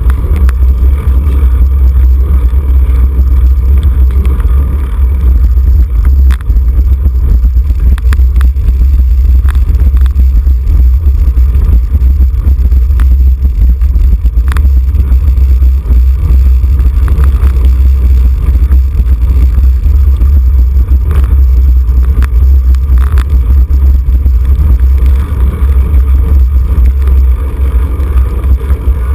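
Wind buffeting the microphone of a camera riding along with a road cyclist: a loud, steady, deep rumble, with a few faint clicks.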